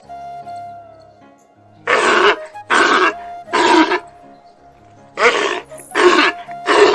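Sea lion barking: two runs of three loud, hoarse barks, each run about three quarters of a second apart, over soft background music.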